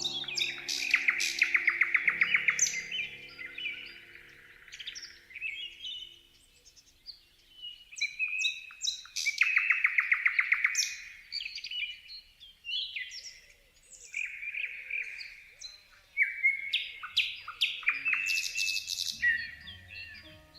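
Songbirds singing in repeated phrases of chirps and whistles, three times breaking into a fast, loud trill. Soft background music sits underneath at the start and again near the end.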